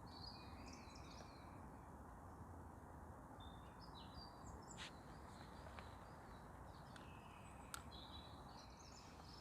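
Near silence with faint birds chirping in a few short phrases over a low steady background noise, with a couple of faint sharp ticks about five and eight seconds in.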